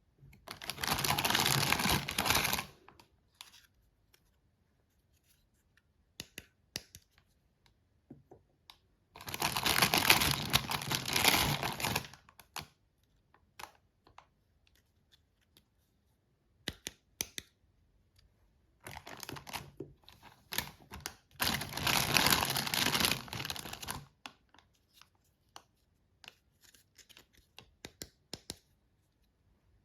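Toy packaging being opened by hand: three spells of tearing and crinkling, each a few seconds long, with scattered small clicks and taps between them.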